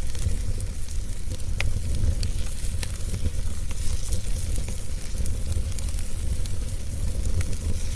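Wood fire crackling in a fireplace: scattered sharp pops and snaps at irregular moments over a steady low rumble and a soft hiss.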